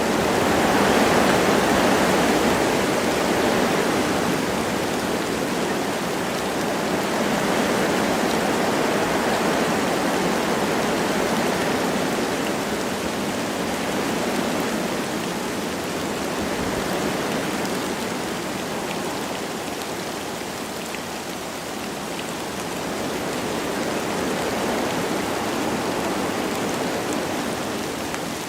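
Wind blowing through forest trees with light rain falling, a steady rushing noise that swells and eases in slow gusts, with faint patter of raindrops.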